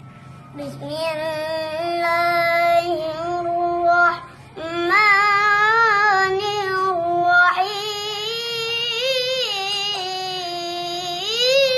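A child's voice chanting Quran recitation in a melodic style, in long drawn-out held phrases with ornamented turns. There is a brief breath pause about four seconds in.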